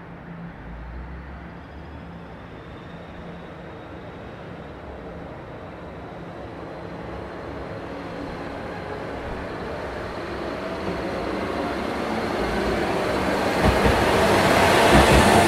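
An Ise Railway diesel railcar approaching and passing close by on the rails, growing steadily louder and peaking near the end with some low knocks.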